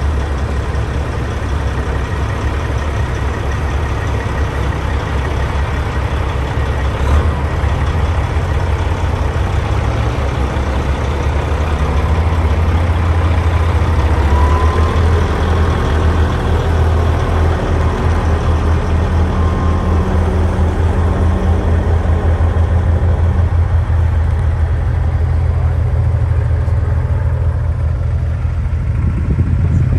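Heavy diesel truck engine running close by with a deep, steady low rumble, growing a little louder around the middle.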